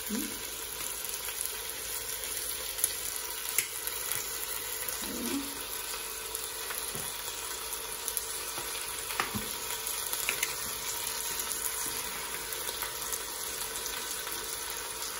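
Lamb pieces frying with onions and turmeric in oil in a stainless steel pot, a steady sizzle, with a few light clicks over it.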